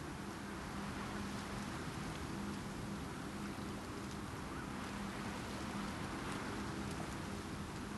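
Steady stormy-weather ambience: an even hiss with a low steady hum beneath and a few faint ticks.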